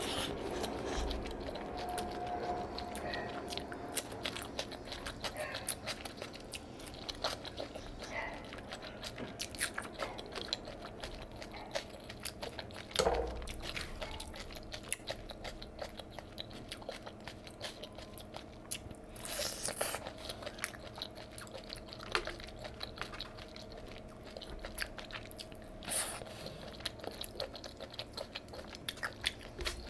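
Close-miked chewing and wet mouth sounds as mouthfuls of curry and rice are eaten by hand, with a steady patter of small smacks and clicks and a few louder ones along the way.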